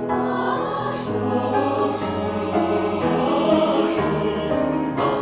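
Mixed choir singing sustained chords that change about once a second, over piano accompaniment.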